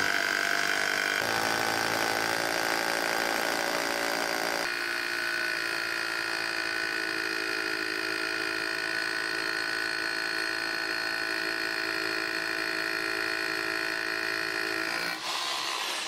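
Bosch GBH 3-28 DFR SDS-plus rotary hammer drill's 800-watt motor running with a steady whine. The pitch shifts about a second in and again near five seconds, and the motor stops about a second before the end.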